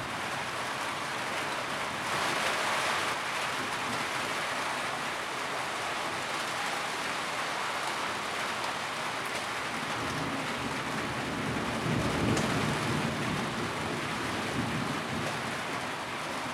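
Steady rain drumming on a tin roof, an even patter with no break. The rain briefly thickens about two seconds in, and a low rumble swells under it about twelve seconds in.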